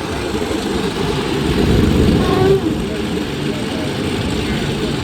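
F4U Corsair's Pratt & Whitney R-2800 eighteen-cylinder radial engine running steadily on the ground, swelling a little about two seconds in.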